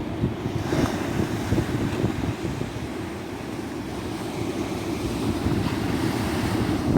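Tropical sea surf washing continuously onto a beach, with wind buffeting the microphone and adding a low, fluttering rumble.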